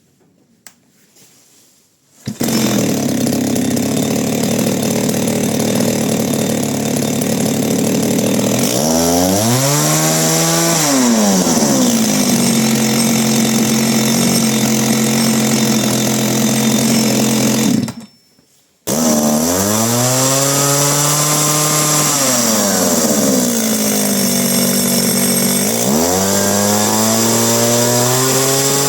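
Kioritz CSVE3501G chainsaw running: it starts abruptly about two seconds in and runs at a steady high pitch. The pitch sags and climbs back several times. It cuts out suddenly near the two-thirds mark and starts straight back up about a second later.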